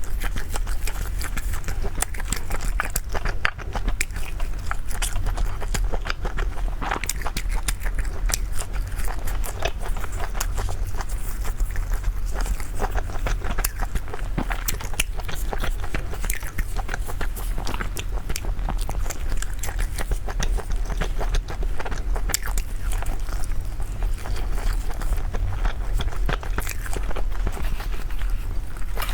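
Close-miked chewing and biting of food: a dense run of small wet clicks and smacks, over a steady low hum.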